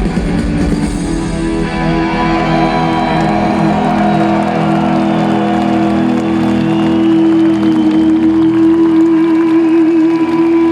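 Rock music with electric guitar: the song ends on a long held chord after the drums stop about a second in.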